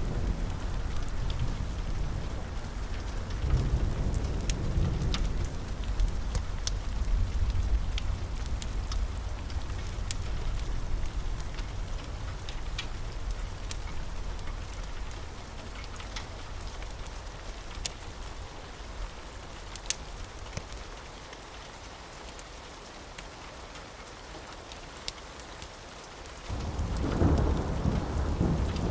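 Steady rain with scattered drop clicks, under rolling thunder. A low rumble fades away over the first twenty seconds or so, and a new peal of thunder rolls in suddenly near the end.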